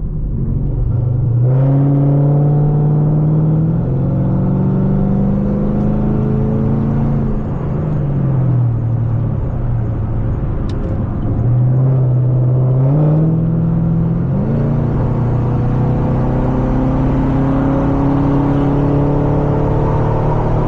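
A 2010 Camaro 2SS's 6.2-litre V8, run through long-tube headers and a straight-piped exhaust, pulling hard under acceleration with its pitch climbing. Around eight seconds in the revs drop away; about three seconds later a second pull begins and the pitch climbs again to the end.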